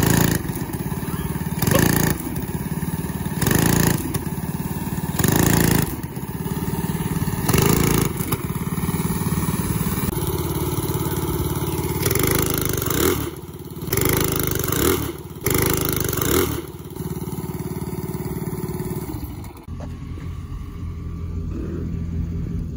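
A 212cc single-cylinder go-kart engine running, with loud surges every couple of seconds at first, then less regular ones. Near the end it settles into a steadier, quieter run.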